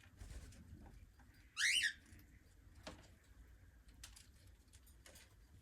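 Cockatiel giving one short, loud, rising chirp about one and a half seconds in, with faint clicks and rustling around it.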